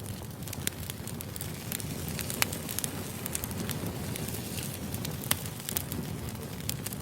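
Firewood burning and crackling: a steady low rumble of flame with irregular sharp pops and snaps. The loudest pops come about two and a half and five seconds in.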